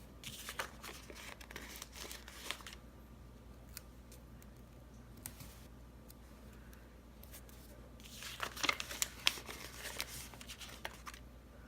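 Paper planner stickers being peeled off their backing sheet and the sheet handled: soft crinkling and tearing in two spells, a short one at the start and a louder one about eight seconds in.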